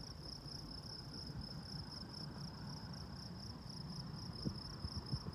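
Crickets chirping in a steady, even pulse, about four chirps a second, over a low rumble.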